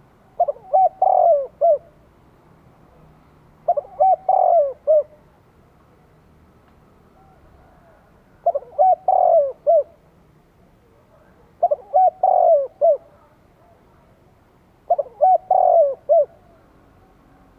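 A spotted dove cooing: five phrases, each a few short notes, a longer swelling coo, then a short closing note, repeated about every three seconds.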